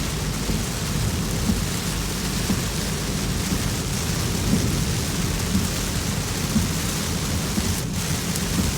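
Heavy rain falling steadily in a thunderstorm, with a continuous low rumble under the hiss of the rain.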